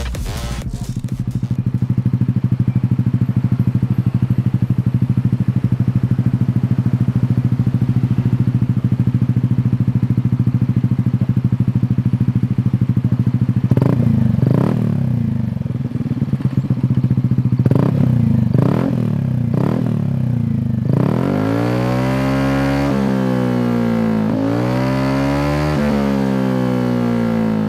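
A 150cc automatic scooter's single-cylinder engine breathing through an aftermarket racing exhaust: a steady idle, then a few short throttle blips about halfway through, then repeated revving up and dropping back over the last several seconds.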